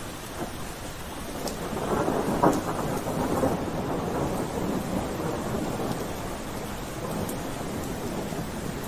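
Steady rain falling, with a roll of thunder that swells about two seconds in, is loudest around the middle of the third second, and slowly rumbles away over the next several seconds.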